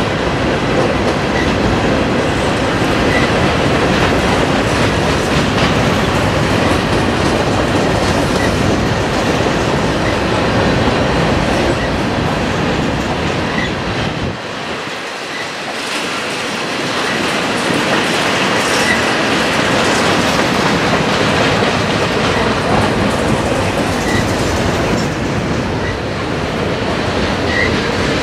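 Freight cars rolling past at close range: a steady rumble of wheels on rail with clickety-clack over the rail joints. Short, faint high squeals from the wheels come every second or two, and the rumble briefly drops about halfway through.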